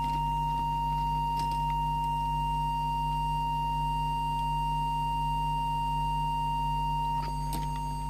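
A steady pure test tone, the audio signal used while setting the FM deviation of a CB radio transmitter, held unchanged over a low steady hum. There are a couple of faint clicks.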